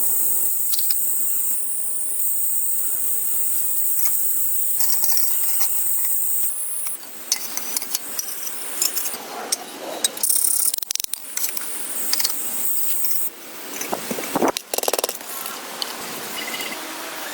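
Scattered clicks, knocks and scrapes of hand work, over a steady high hiss that cuts in and out abruptly several times.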